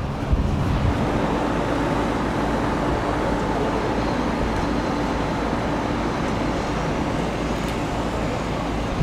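Jet aircraft engines running with a steady, even noise and a faint hum.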